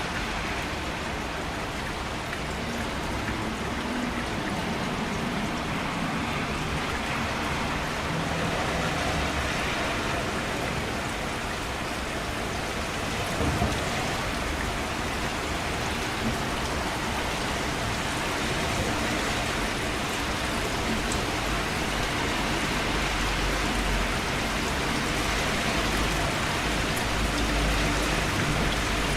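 Steady rainfall, an even hiss of drops falling on surfaces, with a faint low rumble underneath and one small thump about halfway through.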